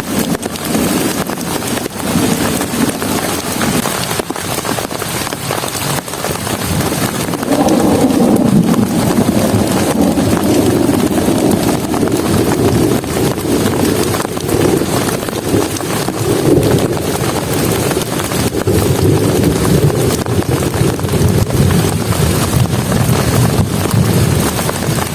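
Heavy rain pouring down in a dense, steady patter of drops, growing louder about seven seconds in.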